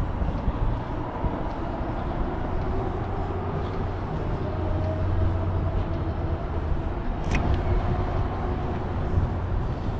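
Steady low rumble of passing vehicles, with a faint engine hum and a brief sharp click about seven seconds in.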